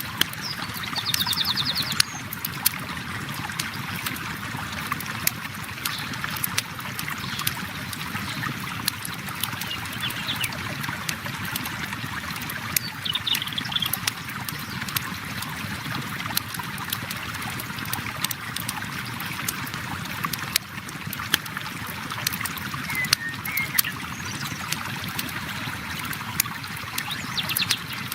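A river flowing steadily, mixed with a campfire crackling in frequent sharp pops. A few short, high trills come through about a second in, near the middle and near the end.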